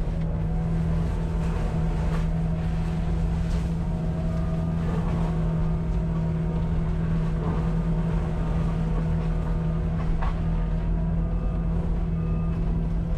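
Cat 259D compact track loader driving a forestry mulcher head: a steady drone from the engine and the spinning mulcher, broken every couple of seconds by short cracks and knocks as the head chews into wood.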